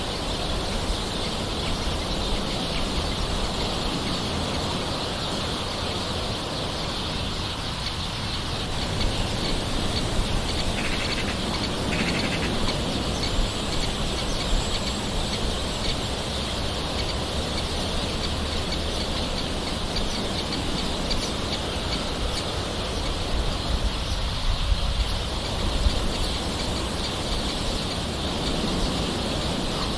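Steady gentle rain hiss with occasional bird calls, a couple of short ones about eleven and twelve seconds in.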